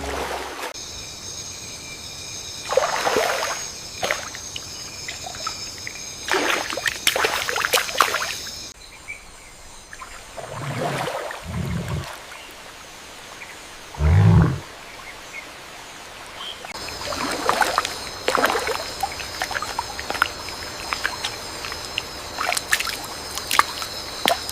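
Jungle ambience: trickling, sloshing water with scattered splashes, under a steady high-pitched drone that drops out about a third of the way in and returns in the last third. Two or three short low rumbles come in the middle.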